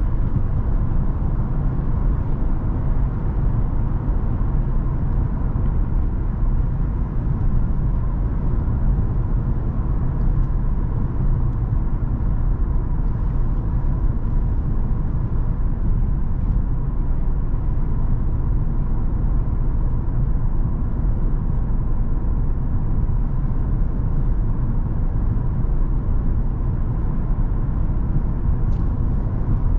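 Cadillac CTS with a 3.6-litre twin-turbo V6, driving at a steady pace: a constant low engine and road rumble with no revving or gear changes.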